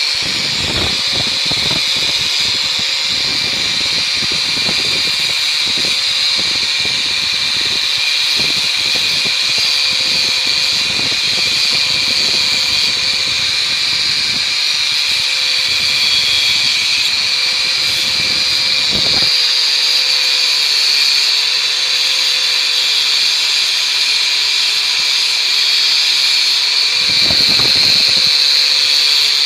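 Bosch GWS 6-100 angle grinder with an abrasive disc running with a steady high whine. Its disc grinds against steel in uneven bursts for about the first twenty seconds, then briefly again near the end.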